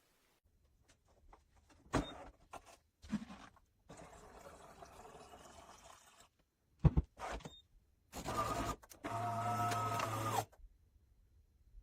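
Automatic espresso machine at work: a few sharp clicks and knocks, a stretch of steady hiss, then its motor running twice briefly with a steady hum.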